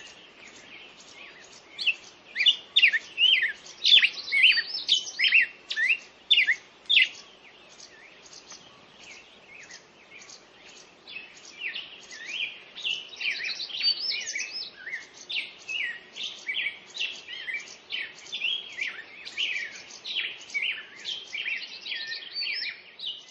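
Songbirds singing, a rapid stream of short high chirps and trills that thins out for a few seconds in the middle, then picks up again.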